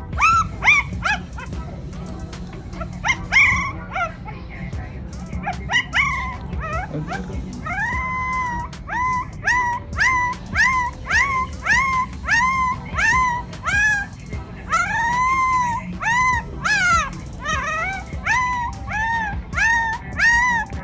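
Recording of a puppy whining and yelping, played back: a long series of short, high cries, each rising and falling in pitch, about one to two a second.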